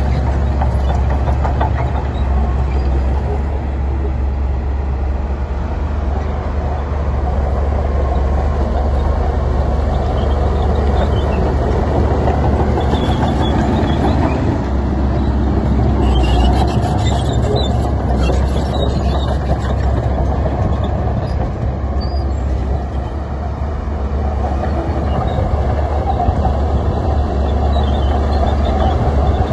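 Heavy diesel earthmoving machinery running steadily with a deep low rumble, with scattered metallic rattles about halfway through.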